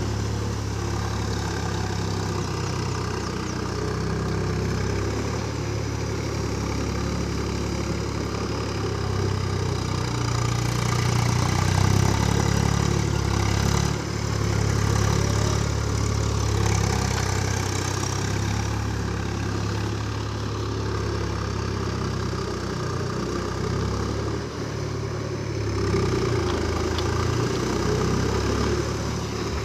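Swaraj tractor's diesel engine running steadily, a little louder for several seconds about ten seconds in.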